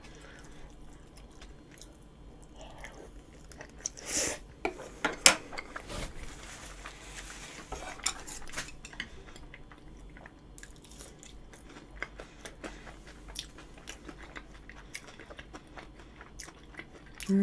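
Close-miked chewing of a mouthful of curry rice, with scattered clicks of a spoon against the bowl, a few louder ones about four to six seconds in.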